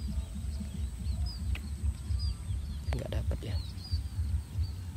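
A bird calling with short, high chirps, about three a second, over a low rumbling noise on the microphone; a couple of faint clicks come about three seconds in.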